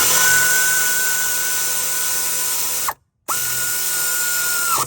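Cordless power tool motor spinning up and running at a steady high whine, in two runs with a short break about three seconds in, each ending with the motor winding down.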